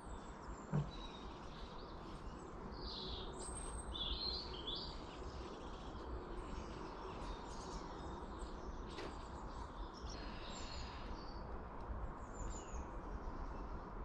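Wild garden birds chirping in short high phrases a few seconds in and again later, over a steady low outdoor rumble, with one short knock about a second in.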